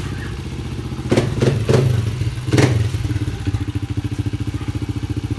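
Pit bike engine idling as it warms up, a steady rapid pulsing. A few short, sharp sounds cut in over it between about one and three seconds in.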